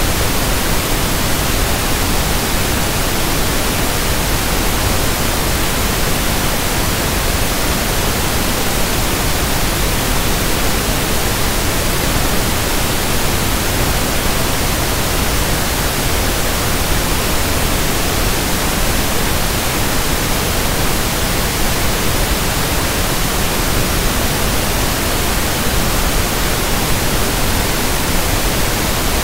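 Synthetic pink noise (1/f noise): a steady, even hiss across the whole range that does not change at all.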